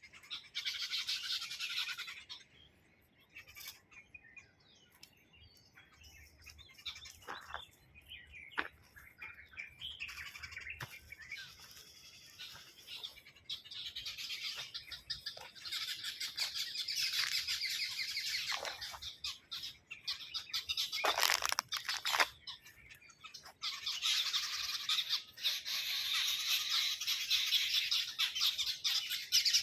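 A flock of small birds chirping and twittering together. The chatter comes in dense spells, at the start, through the middle and over the last several seconds, with quieter stretches of scattered calls between.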